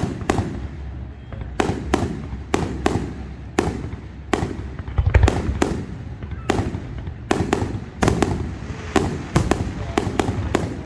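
Fireworks display: a rapid, irregular run of sharp bangs and crackles, several a second, each echoing briefly, with a deeper boom about five seconds in.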